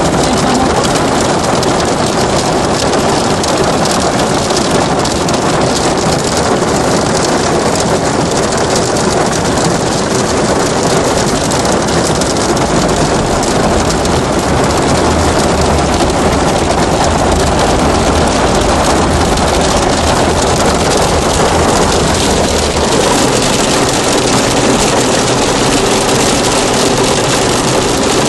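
Hailstorm: hailstones and rain pelting down in a dense, steady clatter on surfaces. A low rumble joins in for several seconds in the middle.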